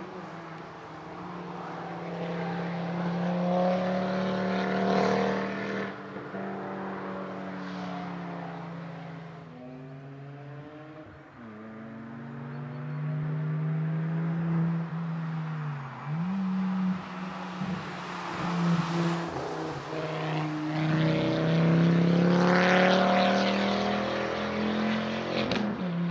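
Ford Focus ST's 2.5-litre turbocharged five-cylinder engine driven hard through an autoslalom course, its note rising and falling as it accelerates, lifts and brakes. It is louder a few seconds in and again near the end.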